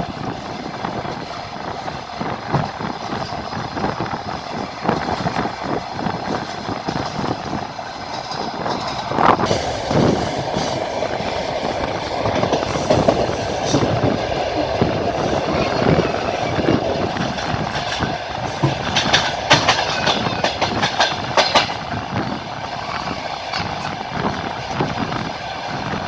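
Train wheels clattering over rail joints as the train runs along the line: a steady rumble with irregular clacks, and a run of sharper clicks a little past the middle.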